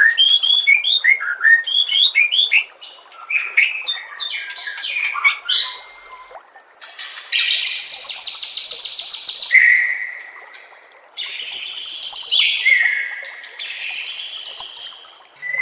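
White-rumped shama (murai batu) singing: a quick run of varied chirped and whistled phrases, then from about halfway three long buzzing rattles, each falling to a lower held note.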